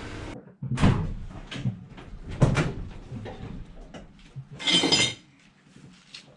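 A series of knocks and clunks, with a half-second rushing, scraping noise about five seconds in.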